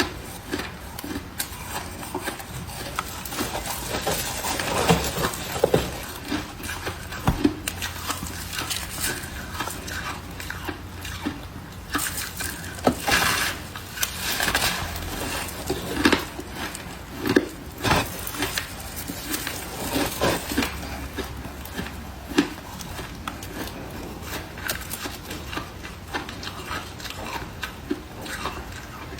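Irregular knocks, clinks and scrapes of objects being handled, scattered through, over a faint steady low hum.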